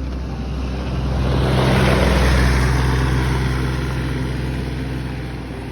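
An engine-driven vehicle passing close by: a low motor hum and noise that swell to a peak about two seconds in, then fade away.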